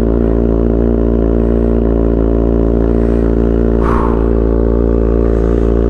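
Kawasaki ZX6R 636 inline-four with an Austin Racing GP1RR exhaust, idling steadily at a raised cold-start idle of about 2000 rpm. The exhaust note is loud.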